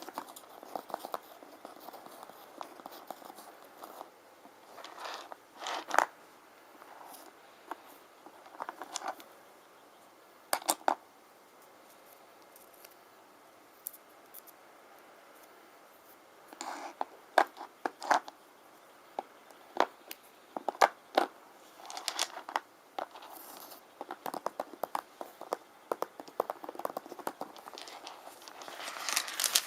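Small rune stones being handled, clicking and scraping against each other in irregular bursts of taps and scratches. There is a quieter stretch midway through.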